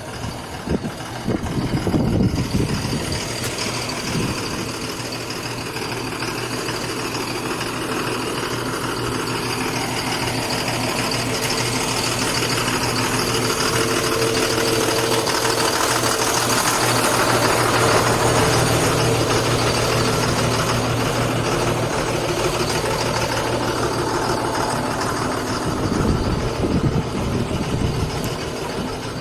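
Sinotruk HOWO TX dump truck's diesel engine running with a steady hum that slowly builds to its loudest about two-thirds of the way through and then eases off, with louder rumbling surges near the start and near the end.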